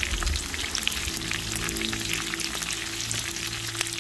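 Sliced onions and browned pork belly sizzling and crackling in hot rendered pork fat in a metal pan. The onions are just added and starting to sauté.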